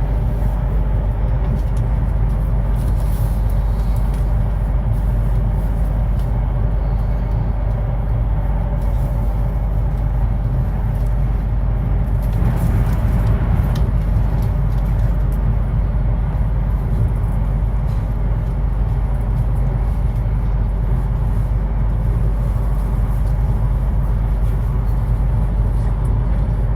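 Chinese high-speed bullet train running at speed: a steady, loud low rumble with an even rushing noise over it, swelling briefly about halfway through.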